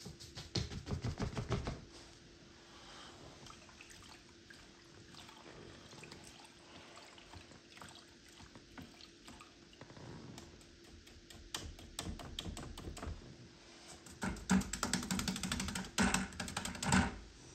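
Paintbrush tapping and scrubbing rapidly against a canvas: a quick run of strokes at the start, softer scratchy brushing in between, and another fast burst of strokes from about fourteen seconds until near the end.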